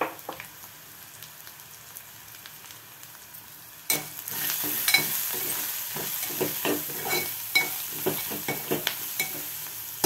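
Onions and ground spices frying in oil in an aluminium pot, with a faint sizzle at first. About four seconds in, a steel spoon starts stirring and scraping the pot in quick repeated strokes, and the sizzle grows louder.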